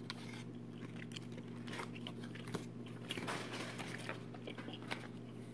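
Faint, irregular chewing of a sticky gummy fish candy, with soft scattered clicks and smacks of it being worked between the back teeth, over a low steady hum.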